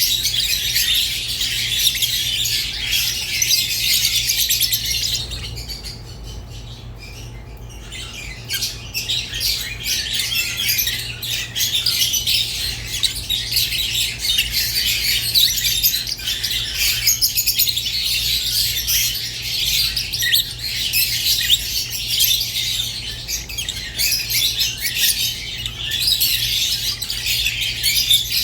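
Rosy-faced and Fischer's lovebirds chirping and squawking in a dense, rapid, high-pitched stream, easing briefly about six seconds in before picking up again. A faint steady low hum lies underneath.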